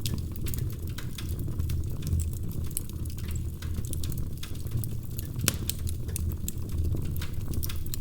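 Fireplace fire crackling: irregular sharp pops and snaps over a low steady rumble of the flames, with one louder pop about five and a half seconds in.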